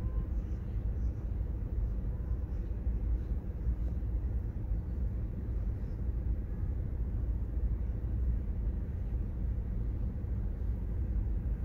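Freight train of boxcars and covered hopper cars rolling past, a steady low rumble of wheels on the rails.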